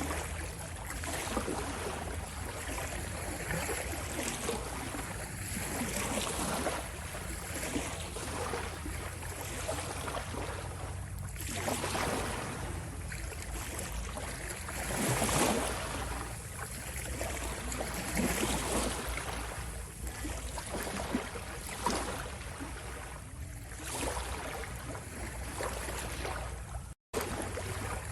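Ocean waves washing in, a continuous rush of water with swells rising every few seconds, the strongest about halfway through. The sound cuts out for an instant near the end.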